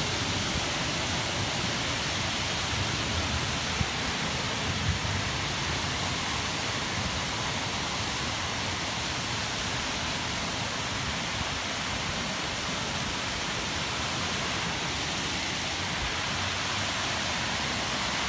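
Rainstorm: rain pouring down in a steady, even hiss.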